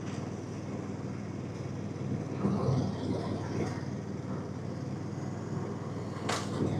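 An engine running steadily, with a sharp click about six seconds in.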